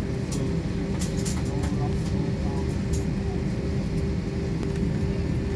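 Steady jet-airliner engine rumble heard inside the passenger cabin, with a constant drone on top and a few faint clicks.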